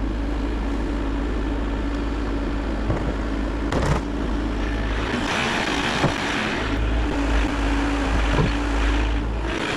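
Bobcat E50 mini excavator's diesel engine running steadily, with a couple of short knocks and a louder, harder-working stretch in the second half.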